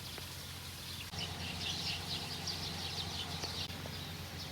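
Many short, high chirps falling in pitch, a flock of small birds twittering, starting about a second in, over a steady low hum.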